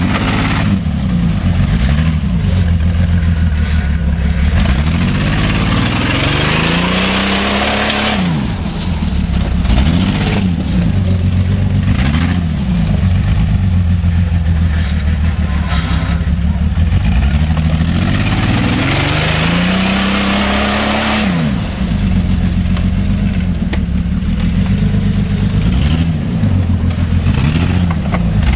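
A vehicle engine revving up and down over and over, its pitch climbing for a second or two and then falling back. Twice it climbs longer and higher before dropping off sharply, about eight and twenty-one seconds in. A rushing, rattling noise runs over it.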